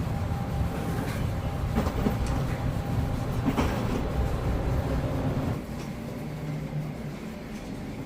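Steady low rumble of a moving vehicle, with a few clicks and knocks, dropping noticeably in level about five and a half seconds in.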